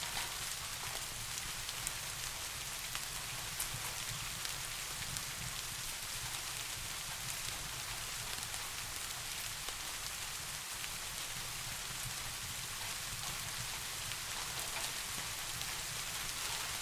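Steady soft rain falling, an even hiss with scattered droplet ticks, over a low steady rumble.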